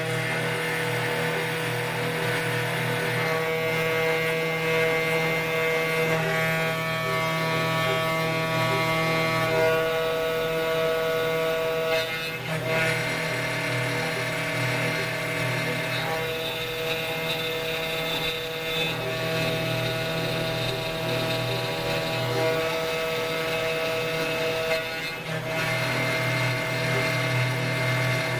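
CNC router spindle running with a steady whine while the bit mills acrylic resin, briefly dropping about twelve and twenty-five seconds in.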